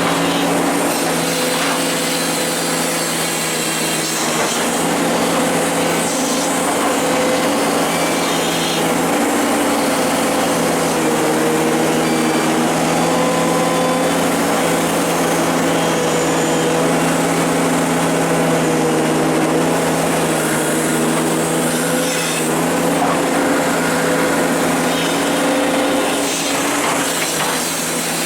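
Excavator's diesel engine running steadily under working load, its pitch rising and falling a little as the hydraulics work.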